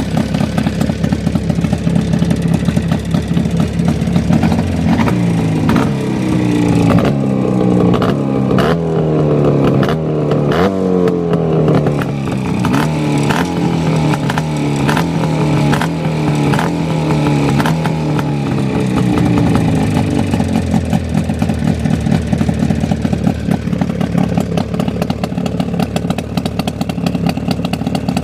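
Jawa 638 two-stroke twin motorcycle engine idling, then blipped up and down repeatedly through the middle with some sharp cracks, before settling back to a steady idle. The bottom end is freshly rebuilt, with new bearings and seals and a re-pressed crankshaft, while the pistons and cylinders are original at about 15,000 km.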